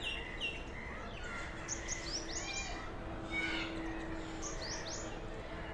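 Small birds chirping in the background: a scatter of short, high, rising chirps, with a faint steady hum underneath.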